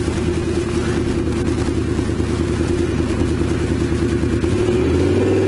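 Honda VFR750's V4 engine running steadily under way, then rising in pitch as the bike accelerates about four and a half seconds in, heard from a helmet camera.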